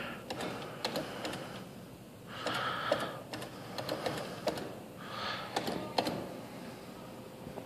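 Scattered sharp clicks from a claw machine's joystick and mechanism, with a person's nasal breaths about every three seconds.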